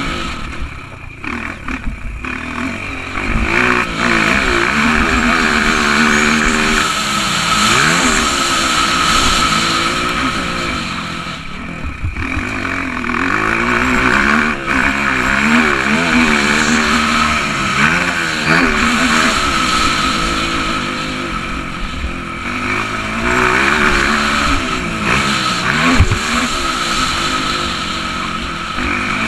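Honda CRF230's single-cylinder four-stroke engine heard from the bike itself, revving up and down over and over as it is ridden around a dirt track. The throttle closes briefly a few times, and there is a steady hiss of wind and rushing air.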